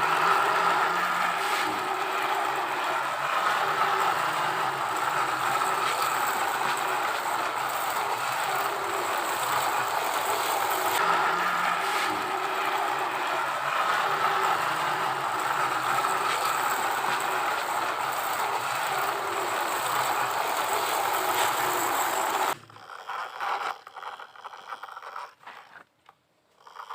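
Toy trucks and a toy excavator rattling and scraping with a steady mechanical clatter, which stops suddenly a few seconds before the end.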